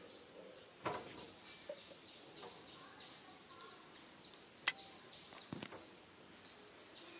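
Small birds chirping faintly in a quick run of short high notes, over quiet outdoor ambience. A soft knock comes about a second in and a sharp click about two-thirds of the way through.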